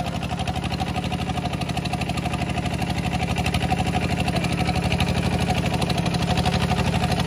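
Walk-behind tractor engine running steadily at low, even speed, its firing pulses heard as a fast, regular beat.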